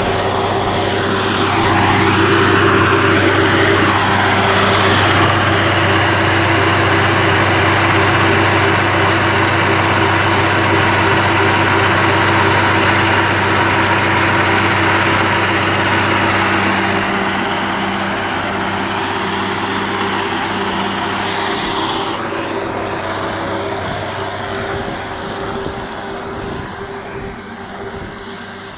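A large engine running steadily with a low hum under broad mechanical noise, dropping after about two-thirds of the way and fading toward the end.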